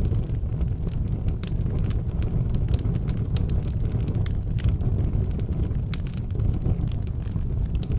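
Wood fire burning in an outdoor fireplace, with a steady low rumble of flame and frequent sharp, irregular crackles and pops.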